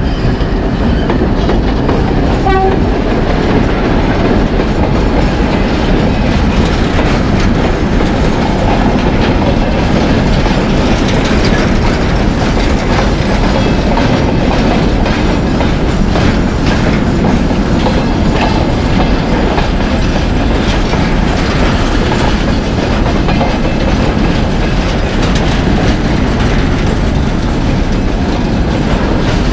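Train with a TEM2 diesel shunting locomotive running on the rails: a loud, steady rumble with wheel-on-rail noise. A brief tone sounds about two and a half seconds in.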